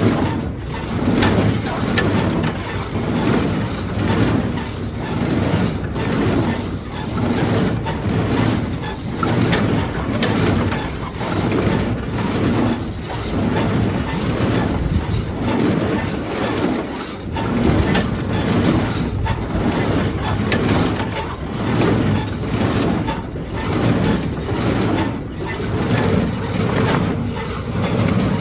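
Engine running steadily with the New Holland Compact HayLiner 65 hay baler's mechanism turning over, its loudness pulsing about once a second as the baler cycles; the baler's bearings are freshly freed, greased and oiled.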